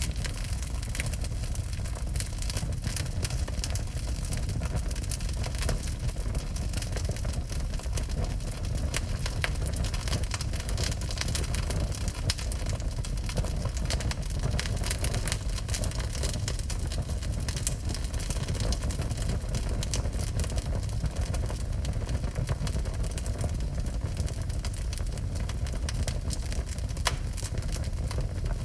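Wood fire burning in a fireplace: dense, irregular crackling and popping over a steady low rumble.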